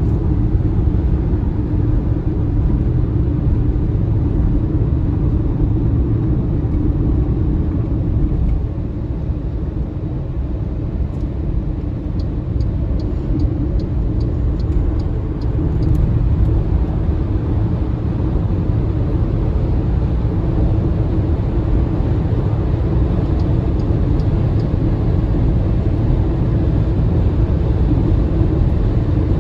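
Steady road and tyre rumble of the battery-electric MG ZS EV driving along at speed, with no engine note. It eases slightly partway through, and there is a short run of faint light ticks around the middle.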